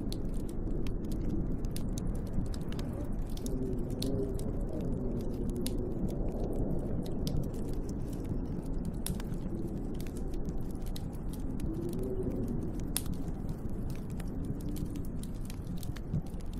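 Wood fire in a fireplace crackling with scattered sharp pops, over a steady low rush of snowstorm wind whose howl wavers up and down in pitch.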